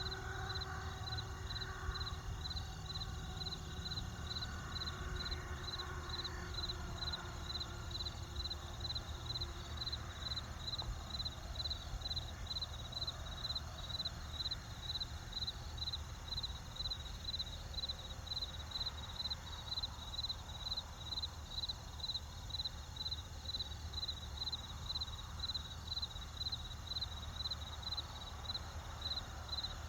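Crickets chirping in a fast, even pulsing rhythm, with a steady high tone beneath them, over a low, steady rumble. A faint pitched hum fades out over the first several seconds.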